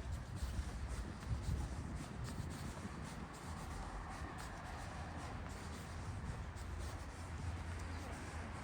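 Outdoor walking ambience: a low steady rumble with faint, irregular scuffs and ticks over it.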